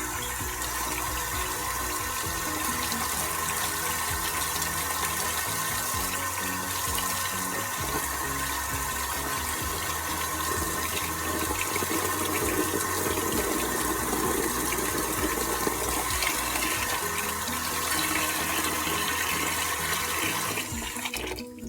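Kitchen sink tap running steadily while raw chicken pieces are rinsed under it; the water shuts off near the end.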